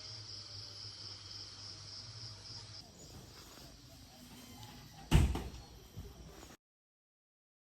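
A steady high-pitched buzz over a low hum, then one loud thump about five seconds in, like a door slamming shut. The sound cuts out to total silence near the end.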